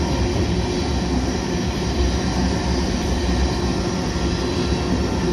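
Tank cars of a freight oil train rolling past, a steady rumble and clatter of steel wheels on rail.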